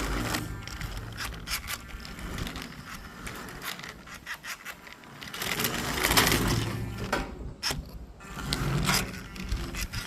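Irregular plastic clicks and scraping from a toy RC monster truck and its remote being handled while AAA batteries are fitted, with wind rumbling on the microphone.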